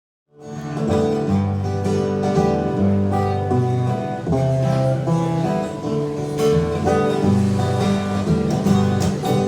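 Acoustic guitar playing a song's instrumental intro, chords changing in a steady rhythm, starting abruptly after a moment of silence.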